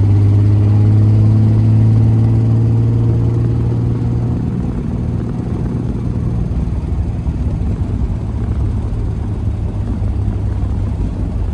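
1968 Triumph TR250's straight-six engine running steadily at low road speed, heard from inside the car. Its even drone is loudest at first and eases off about four seconds in, leaving a rougher rumble.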